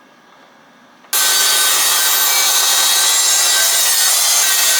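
Power saw cutting through timber, starting suddenly about a second in and then running loud and steady.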